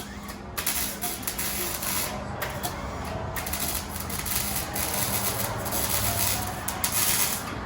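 Shop power tool running in stretches with a rapid rattling clatter, at work on the car's exhaust while the catalytic converters are being removed.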